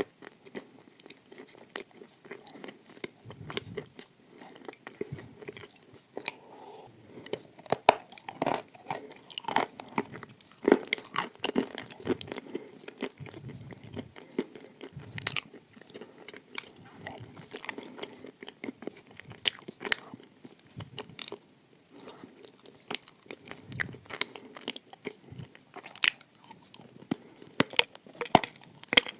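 A person biting and chewing crunchy shortbread boat cookies with cream filling, close to the microphone: irregular crisp crunches and wet mouth clicks throughout.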